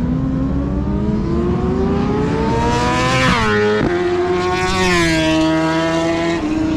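1000 cc superbike racing motorcycles accelerating hard past. Engine pitch climbs for about three seconds, then drops sharply twice just after three seconds in as the bike shifts up, before holding high again.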